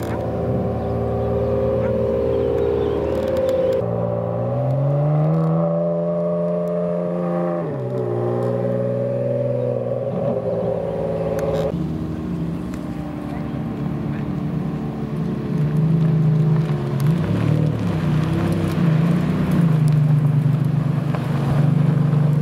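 Ferrari supercar engine running at low revs. The pitch rises about four seconds in, holds, and drops back near eight seconds in, then stays at a low steady pitch with small rises and falls.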